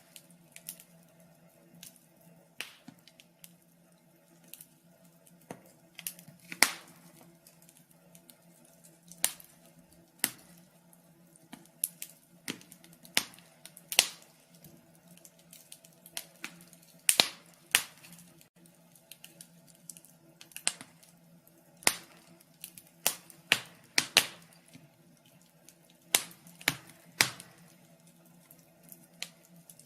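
Fire crackling: irregular sharp pops and snaps, roughly one every second or so, some louder than others, over a faint steady low hum.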